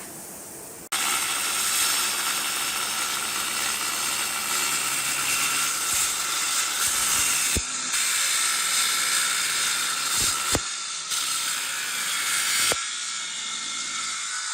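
Power tool running steadily while working wood, with abrupt jumps in level where the footage is cut.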